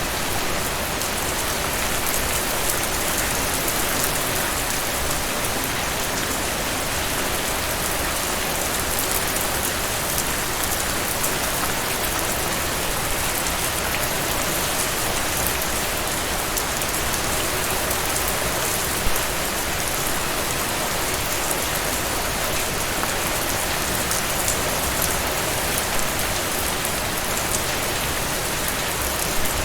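Heavy rain falling steadily, a dense even hiss with fine drop ticks, with a couple of brief louder splashes or knocks, one in the middle and one near the end.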